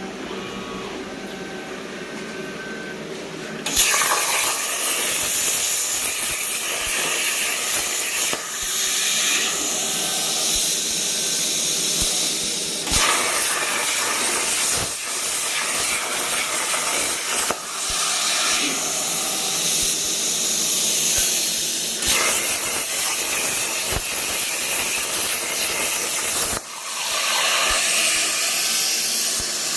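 A steady hum for the first few seconds, then the Everlast 82i plasma cutter's arc fires and cuts 16-gauge steel at 40 amps on about 70 psi of air: a loud, steady hiss that starts suddenly and dips briefly several times as the cut goes on, most clearly near the end.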